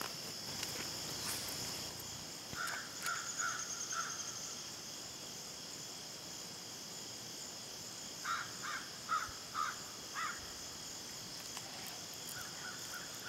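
A bird calling in two runs of about five short repeated calls, the first about two and a half seconds in and the second about eight seconds in. A steady high insect chorus runs underneath.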